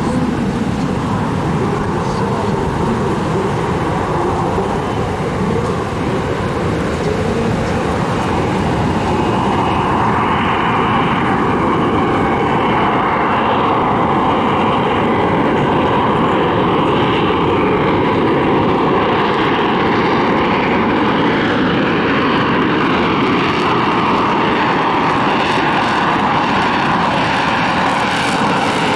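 Aircraft engine noise from a plane performing overhead, loud and steady throughout.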